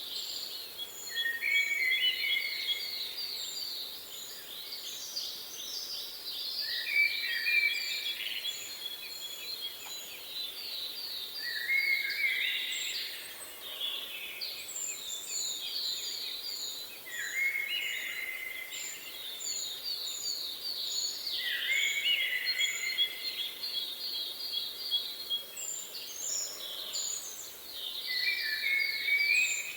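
Songbirds singing: a bird repeats a song phrase every five seconds or so, a fast trill that drops in pitch, while another gives strings of short, very high thin notes several times a second.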